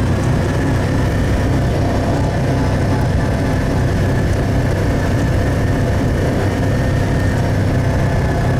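A motor vehicle's engine running steadily at an even speed, a constant low hum.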